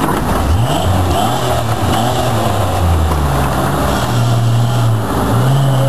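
Off-road 4x4 truck engine revving up and down several times, with a higher rev held near the end.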